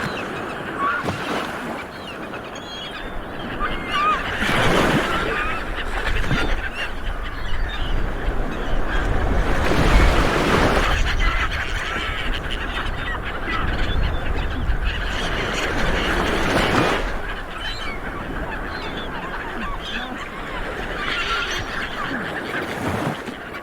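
A flock of seabirds calling over one another with many short, honking calls. Swells of rushing noise with a low rumble rise and fall three times, the loudest about halfway through.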